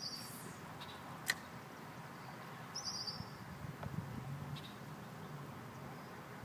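Outdoor creekside ambience: a short high chirp recurs about every three seconds over a low steady rumble, with one sharp click a little over a second in.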